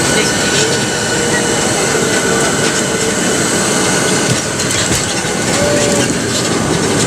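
Cabin noise inside a Boeing 737-700 rolling on the runway after landing: a loud, steady rumble of the engines and the wheels on the ground, with light rattles from the cabin.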